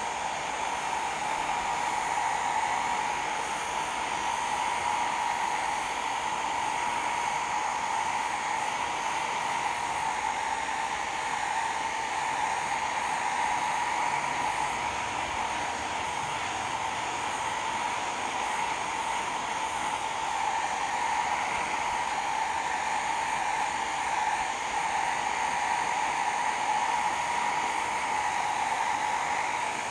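Hot air rework gun blowing steadily: an even airy hiss with a constant mid-pitched whine from its fan, unchanging throughout.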